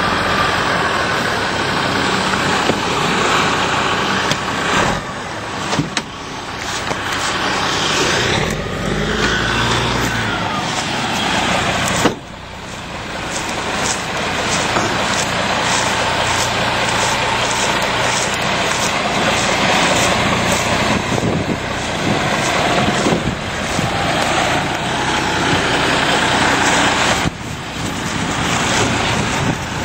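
A heavy vehicle's engine running loudly and continuously, its pitch wandering slightly, with a few abrupt dips in level along the way.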